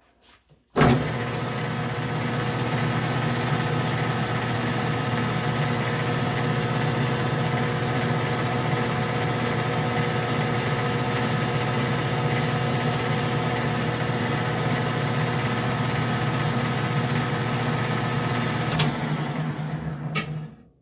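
Metal lathe starting about a second in and running steadily with a motor hum and whine, while a knurling tool is pressed into a spinning 12L14 steel bar to cut a knurl. Near the end it is switched off and runs down.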